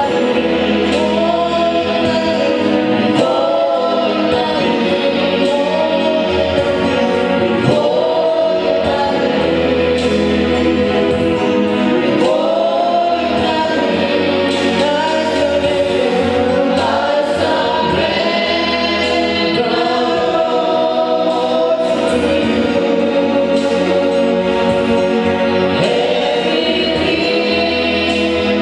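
A choir singing a gospel worship song over a backing band, with a bass line changing notes every second or two and a light steady beat.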